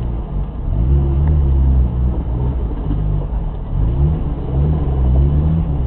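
BMW M50B20 2.0-litre straight-six engine of a 1987 E30 running under way, its note rising and falling in pitch several times as the car is driven.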